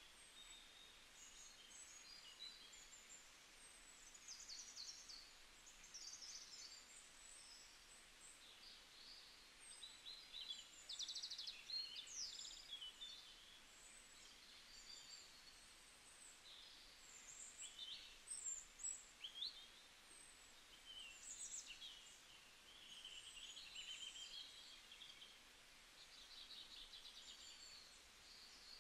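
Faint birdsong: several small birds chirping and trilling, their calls overlapping and busiest around the middle.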